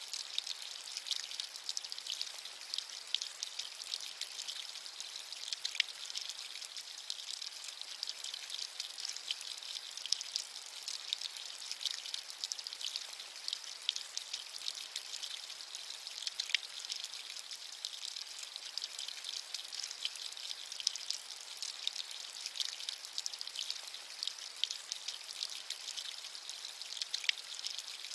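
Steady rain: a continuous high hiss made of many small, close-spaced drop ticks, with almost no low end.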